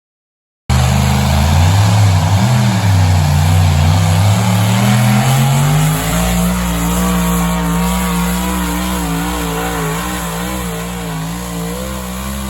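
A pulling vehicle's engine running hard at high revs under load. It starts abruptly about a second in, climbs in pitch over the next few seconds, then holds high with a slight wavering.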